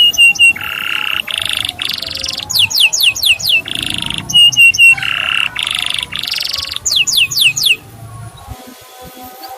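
Male canary singing: runs of four or five quick falling 'cuit' whistles alternating with buzzy rolled trills, the song stopping about eight seconds in.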